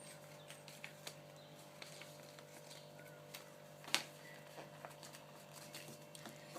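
A sheet of paper being folded back and forth and creased: faint rustles and small crackles, with one sharper crackle about four seconds in, over a steady low hum.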